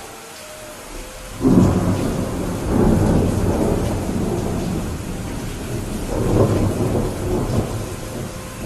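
Steady rain with a thunderclap about a second and a half in that rolls on as rumbling, swelling again near the end before fading.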